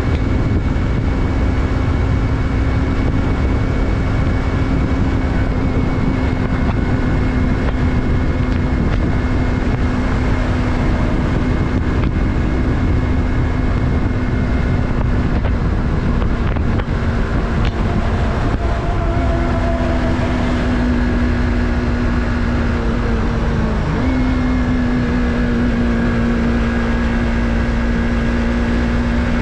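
Yamaha MT-03's 321 cc parallel-twin engine running at a steady cruise over a heavy low rush of wind and road noise. The engine note sags slowly, drops a step about two-thirds of the way through, then jumps up and holds steady near the end.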